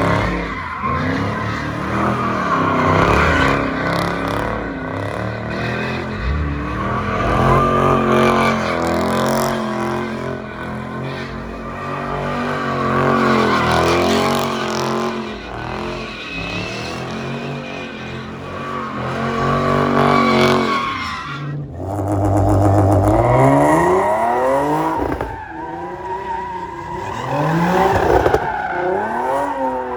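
A car engine revving hard, its pitch climbing and falling again and again, while the tyres squeal and skid as the car drifts. The sound cuts off abruptly once, about two-thirds of the way through, then the revving and tyre noise pick up again.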